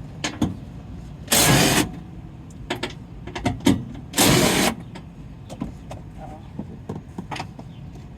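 A handheld power tool, likely a cordless ratchet or driver, running in two short bursts of about half a second each, with clicks and knocks of tools and parts between them, as fasteners are taken out.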